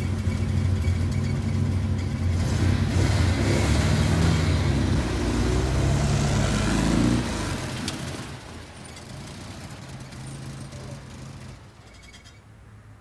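Car engine accelerating as the car pulls away, its pitch rising for a few seconds. The sound then drops off and fades as the car drives into the distance.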